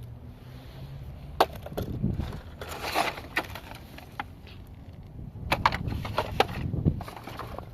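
Sharp cracking and snapping as a small gadget is broken apart by hand, in two clusters of cracks with single snaps between.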